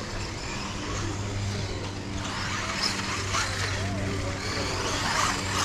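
Radio-controlled off-road cars running on a dirt track: a continuous hiss of motors and tyres on dirt, with small ticks and scrapes, over a steady low electrical hum.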